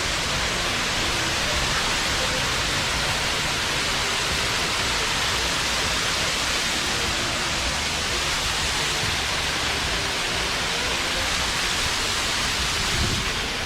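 An artificial waterfall: a loud, steady rush of falling water.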